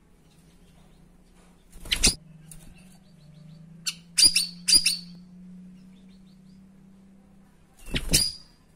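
Cucak rawis (greater green leafbird) giving loud, sharp 'tembakan' calls: one about two seconds in, two in quick succession around four to five seconds, and one more near the end. A faint steady low hum lies underneath.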